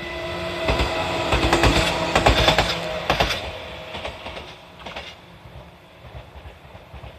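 Meitetsu 6800 series electric commuter train passing without stopping, its wheels clattering over the rail joints. The sound is loudest about one to three seconds in and fades as the train moves away, with a last clatter about five seconds in.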